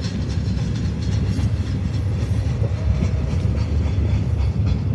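Double-stack intermodal train's container well cars rolling past: a steady low rumble of steel wheels on rail with light clickety-clack.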